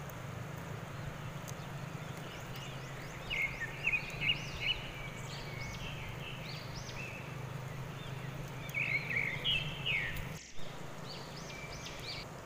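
Birds chirping in short, quick phrases, mostly about three to five seconds in and again about nine to ten seconds in, over a steady low background rush.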